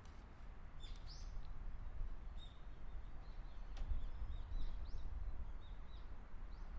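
Small birds chirping on and off, short repeated calls, over a low steady background rumble; a single sharp click about four seconds in.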